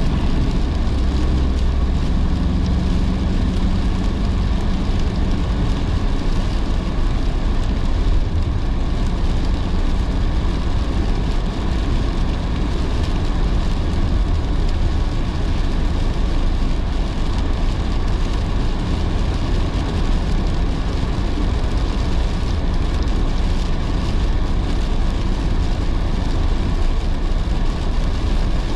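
A car driving on wet roads in heavy rain: steady tyre and road noise with rain on the car, and a low hum that is a little stronger in the first few seconds.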